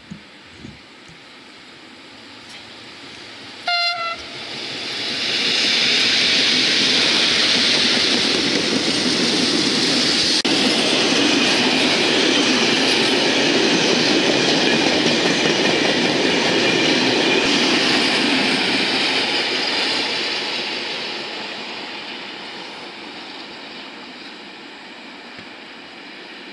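Freight train hauled by an FS E655 electric locomotive passing close by: one short horn blast about four seconds in, then the locomotive and wagons running past loud and steady for about fifteen seconds before slowly fading away.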